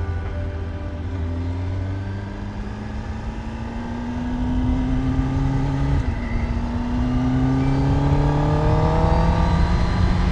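Kawasaki ZX-10R's inline-four engine pulling under acceleration, its pitch climbing steadily, dropping sharply at a gear change about six seconds in, then climbing again as it pulls in the next gear, heard from the rider's position with wind noise underneath.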